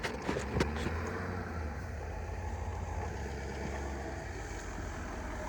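Pickup truck engine running at low revs, a steady low hum, with a few light clicks in the first second.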